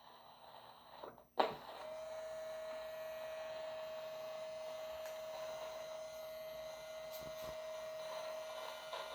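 A sharp click, then a small electric motor on a model railroad layout starts and runs with a steady whine.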